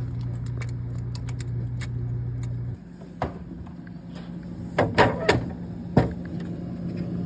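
Refrigerator water dispenser's inlet valve humming steadily while water runs, cutting off suddenly about three seconds in, followed by several sharp clicks and knocks.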